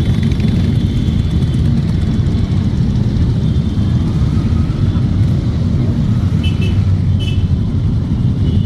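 Several motorcycle engines running together in a steady low rumble. Two short, high toots sound near the end.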